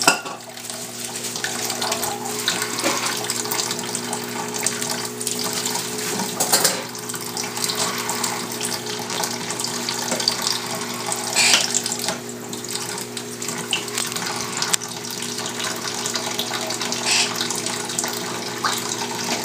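Kitchen sink tap running steadily, the water splashing onto an African grey parrot bathing under it, with a few brief louder splashes.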